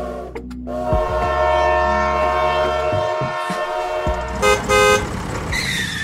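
Toy train horn sounding one long held toot over a low rumble, followed by two short beeps about four and a half seconds in, and a falling tone near the end.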